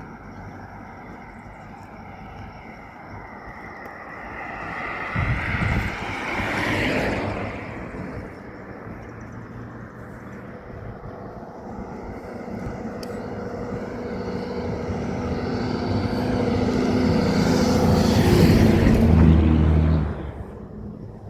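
Motor vehicles passing close by. One goes past about five to seven seconds in; then a louder engine builds up steadily to a peak near the end and drops off sharply.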